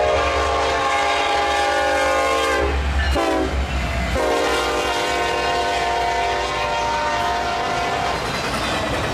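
Freight train's diesel locomotive air horn sounding a long blast, a short blast, then another long blast, in the pattern of a grade-crossing signal, over the steady low rumble of the passing train.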